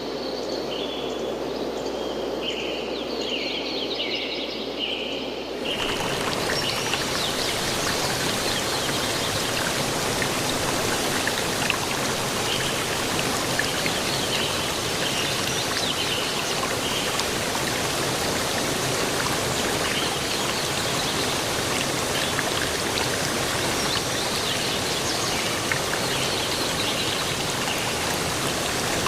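Birds chirping over a steady hiss of running water. About six seconds in the sound changes abruptly to a louder, even rush of water, with bird calls still faintly heard over it.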